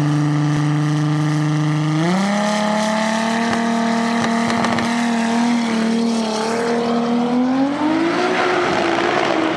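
Turbocharged Toyota Supra 2JZ inline-six engine running at a held, steady speed. Its pitch steps up about two seconds in, holds there, then climbs again near the end.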